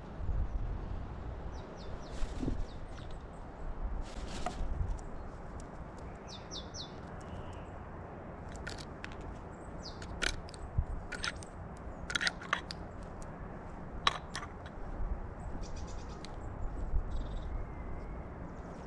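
Carrion crows feeding at a feeder table: scattered sharp taps of beaks pecking at the food, with a few brief high bird chirps.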